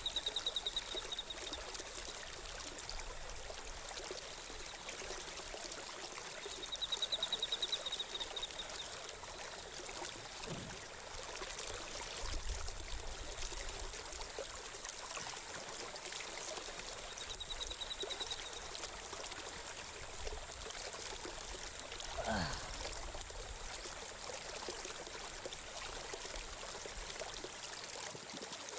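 Steady rush of running water, with a rapid high trill heard three times and a single falling sweep about two-thirds of the way through.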